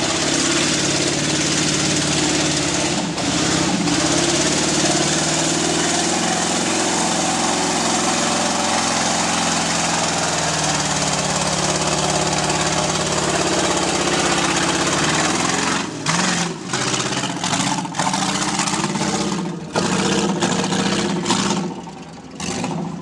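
Off-road truck's engine running hard at high revs under heavy throttle, then revving in short on-and-off bursts from about two-thirds of the way through, falling away near the end.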